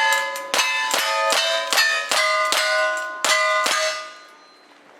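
Rapid gunfire at steel targets, about nine shots in four seconds, each hit followed by the plates ringing with bell-like tones. There is a short pause before the last two shots, and the ringing fades out after the last one.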